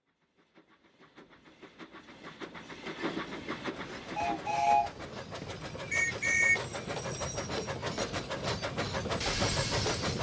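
Steam locomotive sound effects. Rhythmic chuffing fades in from silence and grows louder, with two short double whistle toots in the middle, and a hiss of steam near the end.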